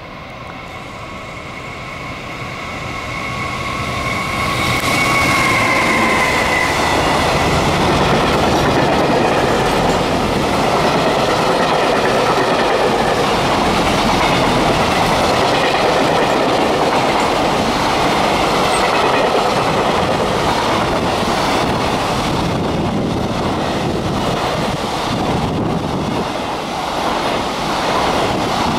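JR Freight EF210 electric locomotive hauling a container freight train through a station without stopping. A steady two-tone whine rises to a peak and dips in pitch as the locomotive passes about five seconds in. After that comes the continuous rumble and clickety-clack of the container wagons rolling over the rails.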